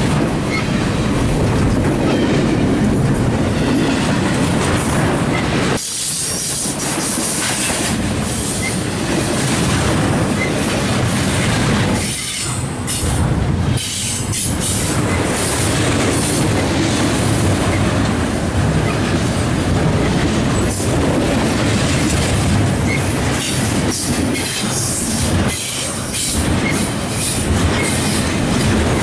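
CSX double-stack intermodal freight train passing close by: the steel wheels of the well cars rumble and clack steadily over the rail joints, the noise dipping briefly a few times.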